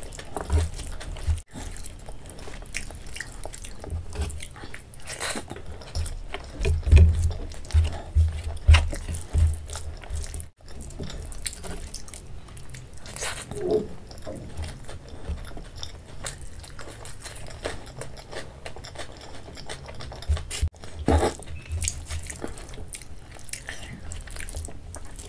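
Close-miked eating: chewing and wet mouth sounds of someone eating rice mixed with curry, along with fingers squishing and mixing the rice on a steel plate. Many short clicks, with a few louder low thumps.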